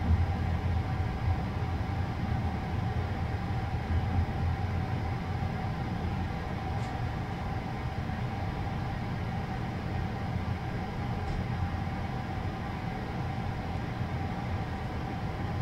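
Steady low rumble of a night-train couchette car rolling slowly, heard from inside the carriage, with a constant hum over it.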